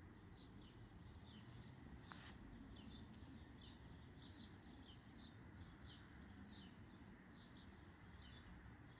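Faint, repeated bird chirps, short falling notes about twice a second, over a low steady background rumble. There is a single light click about two seconds in.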